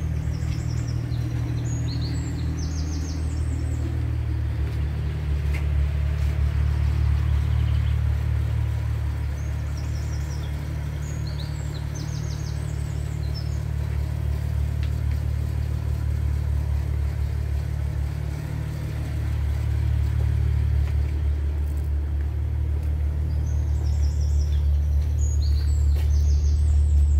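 BMW 640i's turbocharged 3.0-litre straight-six idling steadily while warming up after a cold start. Birds chirp in short bursts three times over the engine.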